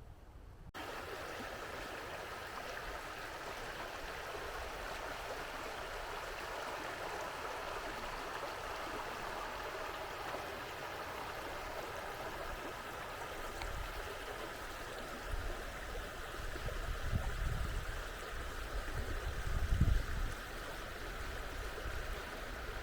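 Steady rush of the River Vit's flowing water, starting abruptly just under a second in. Gusts of wind rumble on the microphone about two thirds of the way through.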